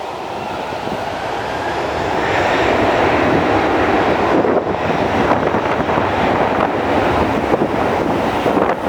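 Jet airliner engine noise: a rush that grows louder over the first two to three seconds and then holds loud and steady.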